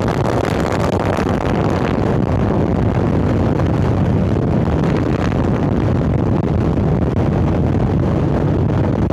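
Harley-Davidson Sportster 1200 Roadster's air-cooled Evolution V-twin running steadily through Vance & Hines Hi-Output Grenades 2-into-2 exhaust while riding, with some wind noise on the microphone.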